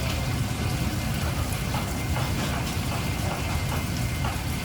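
A steady low rumble, like a machine running, with a few faint light ticks over it.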